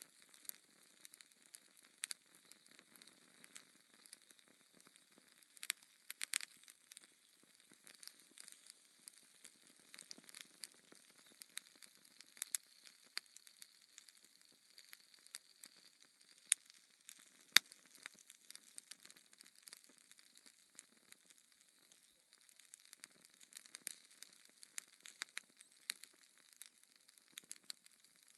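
Logs burning in a fireplace, crackling with irregular sharp pops over a faint hiss; the two loudest pops come a little past halfway.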